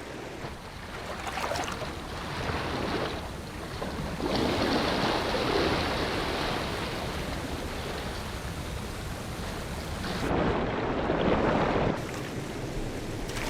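Rushing water of a river waterfall, a steady noise that changes level between shots. It gets louder about four seconds in, and again from about ten to twelve seconds.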